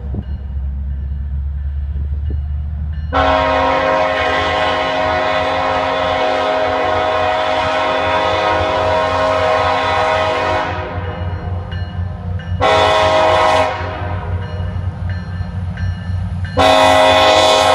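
Diesel freight locomotive's multi-chime air horn sounding a long blast, a short blast, then another long blast starting near the end, over the low rumble of the train.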